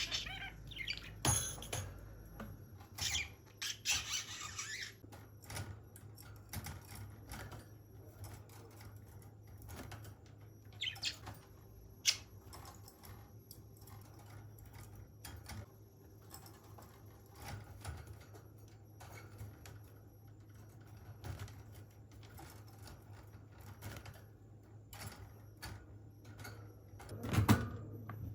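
Budgerigar chirping and squawking in short bursts, mostly in the first few seconds, among many scattered small clicks and taps, with a louder thump near the end; the budgie is restless at being kept in its cage. A low steady hum runs underneath.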